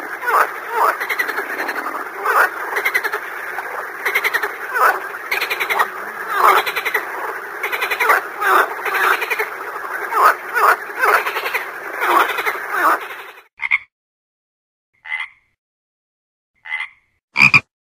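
A chorus of many frogs croaking over one another, which cuts off abruptly about 13 seconds in. Four separate single frog croaks follow, a second or so apart, the last the loudest.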